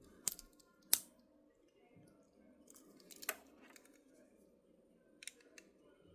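Sharp small clicks of a Victorinox pocket knife working on the plastic shell of a car key fob, likely as the case is pried open. About five clicks, the loudest about a second in and two close together near the end.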